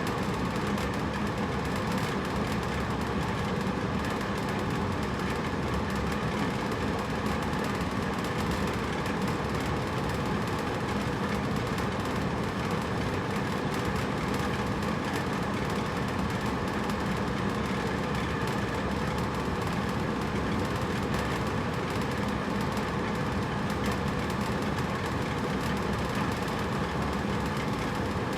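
Hotel room air conditioner running steadily: an even whir of fan and compressor with a constant low hum.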